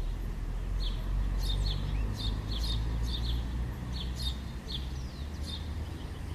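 Birds chirping in short, sharp, repeated notes, two or three a second, over a steady low rumble.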